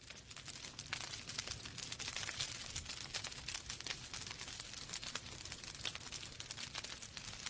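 Wood fire in a fireplace crackling, a dense run of small snaps and pops over a steady hiss.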